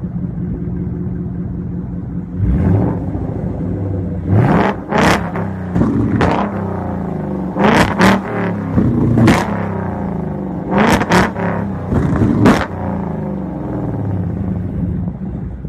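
V8 car engine idling and being revved repeatedly, with a series of sharp exhaust bangs on the revs: backfires of a tuned flamethrower exhaust shooting flames.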